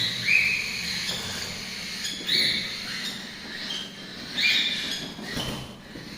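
Young cockatiel chicks giving a series of short, high calls, one about every second or two: the food-begging calls of hand-fed chicks.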